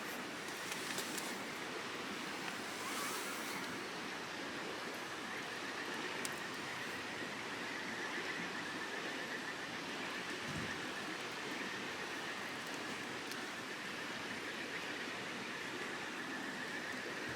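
Steady rushing of flowing water, with a few faint sharp pops from a wood campfire.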